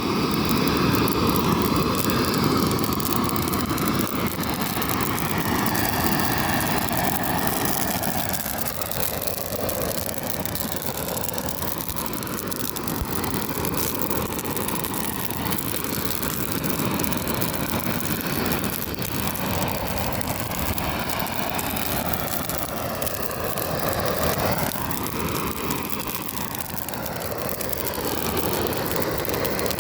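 Gas torch flame burning a weed: a steady rushing hiss whose tone shifts slowly as the torch moves.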